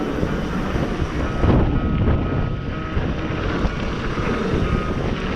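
Wind buffeting the microphone and tyres rolling over a dirt trail as a mountain bike rides down a bike-park flow line, a steady rushing noise with low rumble.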